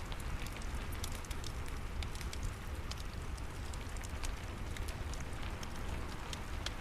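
Steady rain with a crackling fireplace, many small sharp pops and snaps scattered over an even hiss and a low rumble.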